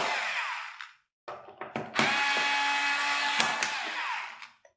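Electric screwdriver backing out the small screws of a laptop's bottom cover. A short run winds down about a second in, a few light clicks follow, then a second run of about two and a half seconds winds down near the end.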